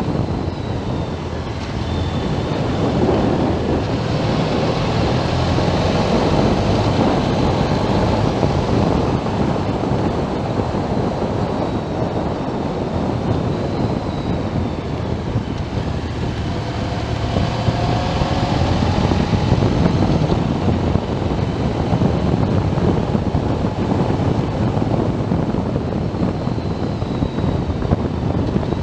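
Motorcycle riding along a road, its engine running under a heavy rush of wind noise on the microphone, with the engine note shifting in pitch a little around the middle.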